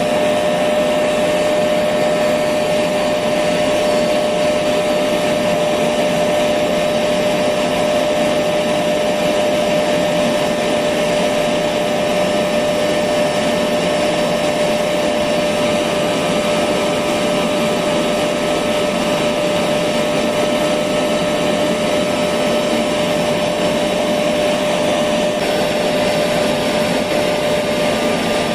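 Electric vacuum cleaner running steadily, a constant motor whine over a rushing of air, played as white noise to lull a baby to sleep.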